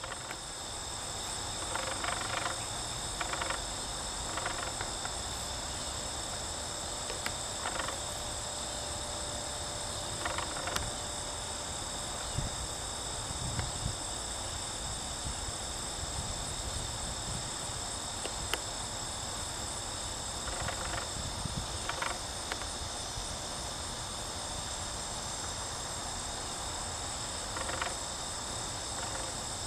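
A steady, high-pitched insect chorus of crickets, made of several unbroken shrill tones, recorded at a honeybee hive. Short, louder bursts of sound rise above the chorus every few seconds.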